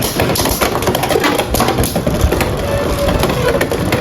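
Two Beyblade X spinning tops battling in a plastic stadium: a rapid, continuous clatter of collisions and scraping.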